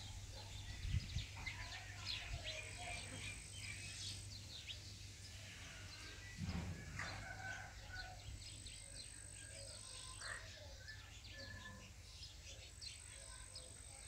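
Small birds chirping in many short, quick notes, overlapping and going on all the while. A thin, steady high whine comes and goes, and there are two low bumps, about a second in and around six and a half seconds in.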